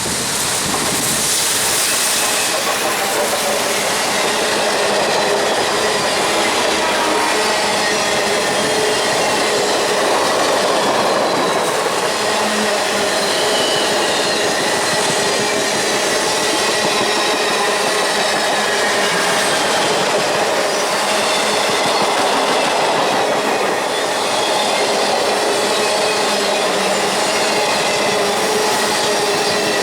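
A train's cars rolling steadily past close by, a constant loud rumble of wheels on rail with thin squealing tones from the wheels running through it.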